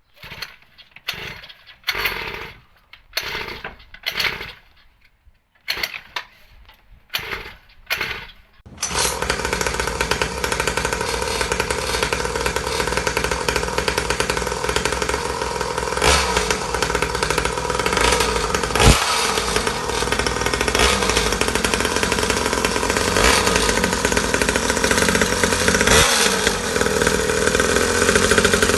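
49cc two-stroke pocket bike engine on its first start: a string of short bursts as it fires briefly on each attempt, then about nine seconds in it catches and keeps running steadily.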